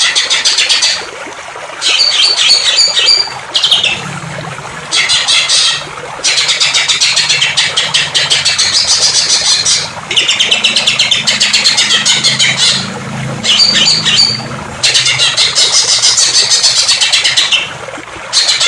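A songbird singing in bouts of fast, rapidly repeated high notes, about seven bouts of one to four seconds each with short pauses between, over a steady rush of running water.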